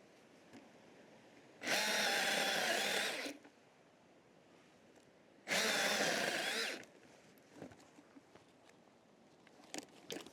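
A handheld power tool runs twice in short bursts of about a second and a half each, at a steady pitch. A few light knocks follow near the end.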